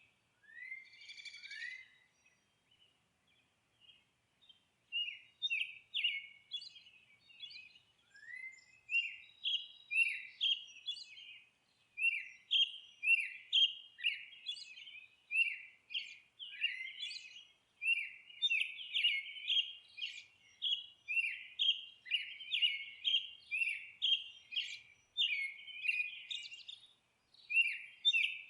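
Songbirds chirping and twittering: a stream of short, high chirps, sparse at first and then coming quickly, one after another, from about nine seconds in.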